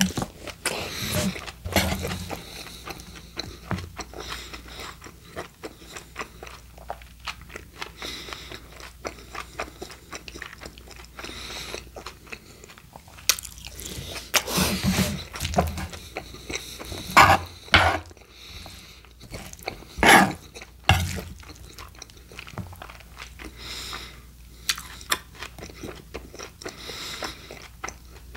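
Close-miked chewing and mouth sounds of a man eating forkfuls of Chipotle steak burrito filling, with a few louder moments a little past the middle.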